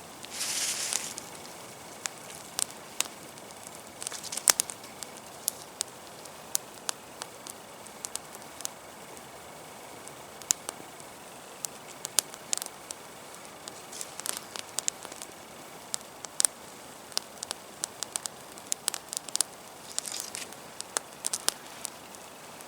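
Campfire of damp wood burning, with sharp irregular crackles and pops. Short spells of hissing come just after the start and again about two-thirds of the way through.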